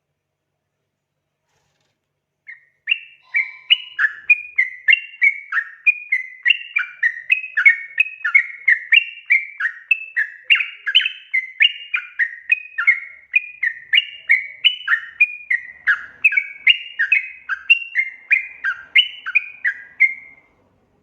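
Yellow-vented bulbul (trucukan) calling: a long, fast run of short chirping notes, two to three a second, starting about two and a half seconds in and stopping shortly before the end.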